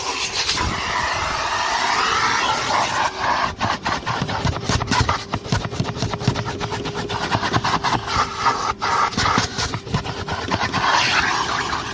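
Numatic Henry HVR200-22 vacuum cleaner running, its motor holding one steady tone under a rushing of air that rises and falls as the nozzle moves. Many short clicks and knocks come from the nozzle and hose striking and scraping the car's interior.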